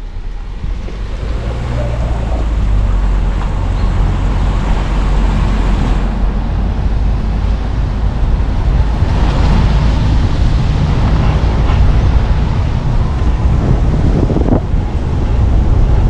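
A car being driven, heard from on board: a steady low rumble of tyres and engine with wind noise, growing louder over the first few seconds.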